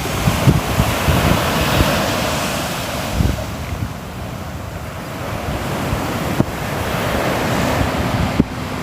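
Sea waves surging and washing on a shore: a steady rush that swells, eases off about halfway through, then builds again. Wind buffets the microphone with frequent low thumps.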